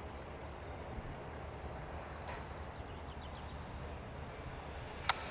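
Steady low rumble of outdoor background noise, with a single sharp click about five seconds in.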